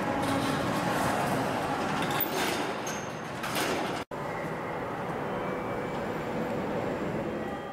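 Steady rumble of a train running through the station, heard from inside the station concourse, with a few light clicks about two to three and a half seconds in. It breaks off for an instant about four seconds in and carries on slightly quieter.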